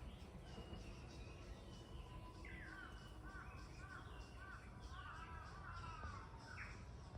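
Birds calling outdoors: faint thin calls, then from about two and a half seconds in a quick run of short, arching chirps. A steady low background rumble runs underneath.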